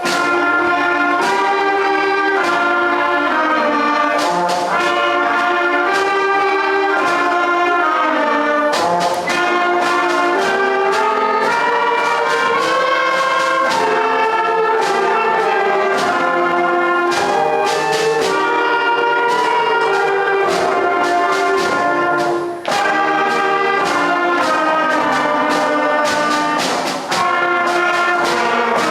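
School concert band playing a piece, with brass to the fore: sustained chords with notes that change in a steady rhythm, and brief breaths between phrases about a third of the way in and near the end.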